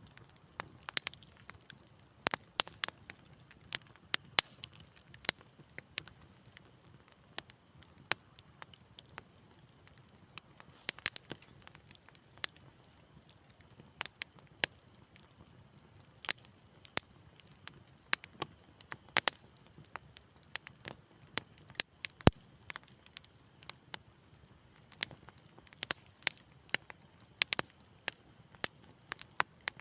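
Wood fire in a fireplace crackling: irregular sharp pops and snaps, several a second at times, over a soft low hiss. One pop a little past two-thirds of the way through is louder than the rest.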